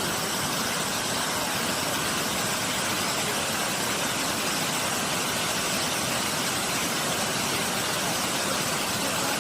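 Steady rush of a waterfall: falling water crashing and splashing as one even, unbroken noise.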